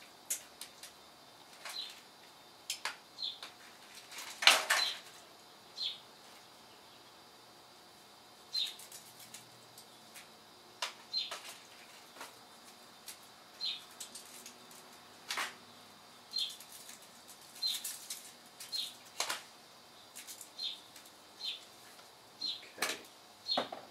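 A small bird chirping repeatedly, one short high chirp every second or two, mixed with clicks and rustles of food being handled on an aluminium foil tray. The loudest rustle comes about four and a half seconds in.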